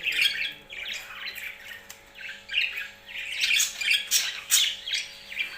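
Pet birds calling, a quick run of short, harsh calls one after another, loudest about four seconds in.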